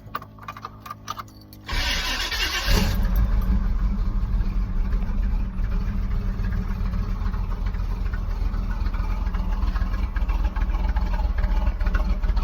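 A 1991 Chevrolet Camaro's engine cold-started after sitting unused a while: a few clicks, about a second of starter cranking, then it catches near three seconds in and runs steadily with a deep, even rumble.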